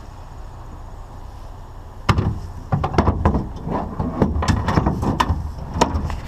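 Steady low rumble of an idling vehicle, then from about two seconds in a quick run of clanks and knocks as pieces of curbside scrap are handled and thrown about.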